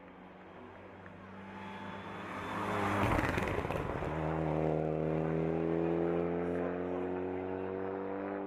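Race car in a hillclimb coming up and passing close by about three seconds in. Its engine note then climbs steadily as it accelerates away up the course.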